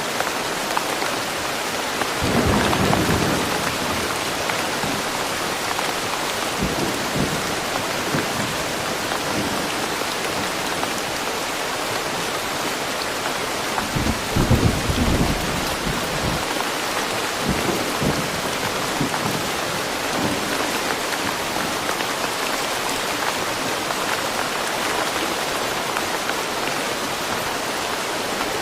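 Steady rain falling in a forest, a continuous even hiss. Low rolls of thunder rise through it about two seconds in and more strongly around fourteen seconds in.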